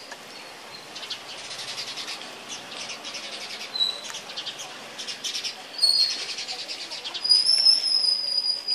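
Birds singing: bursts of rapid, high chirping notes, with clear high whistles between them, the longest whistle held steady over the last second or so.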